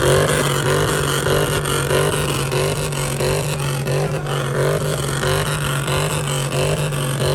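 A vehicle engine revved up and held at a steady high rpm, with a regular pulsing in its sound.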